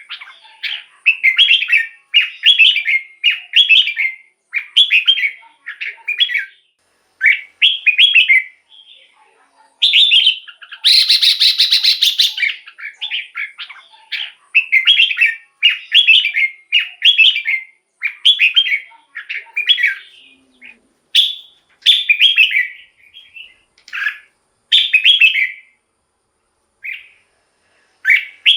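Red-whiskered bulbul singing, a rapid run of short, liquid warbled phrases repeated about once a second, with a harsher, denser burst near the middle.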